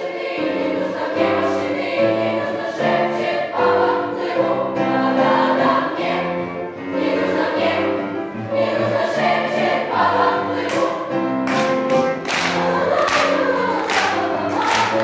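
Choir singing a song. About eleven seconds in, sharp rhythmic beats join in, about two a second.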